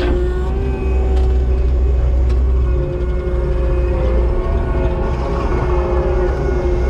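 Diesel engine of a compact excavator or track skid steer running steadily, a deep constant rumble with a steady droning tone on top, and a few faint clicks.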